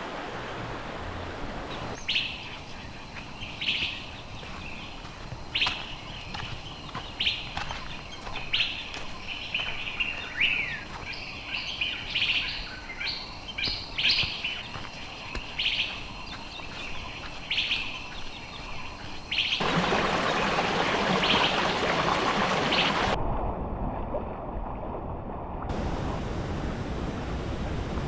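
Birds calling: short chirps repeated about every second or two over a low, steady hiss. About twenty seconds in, the sound cuts to a louder, steady rushing noise.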